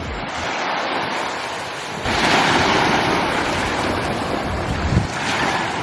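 Surf washing up the shore, with a wave swelling in about two seconds in and running for about three seconds before easing off. Wind buffets the microphone.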